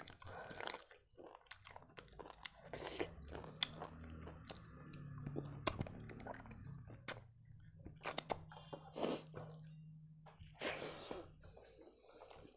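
Close-miked chewing and wet mouth sounds of someone eating rice and meat by hand, with irregular sharp crunches and clicks.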